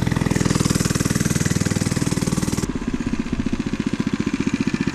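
Small single-cylinder four-stroke mini bike engine running under way with a rapid, even firing beat; in the second half the beat slows a little and gets slightly quieter.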